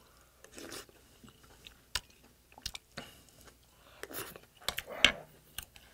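Close-miked eating sounds: a person chewing a spoonful of rice and broth, with scattered wet mouth clicks and smacks, the loudest about five seconds in.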